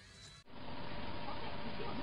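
Near silence for about half a second, then a steady background hiss with faint voices from a television playing in the room.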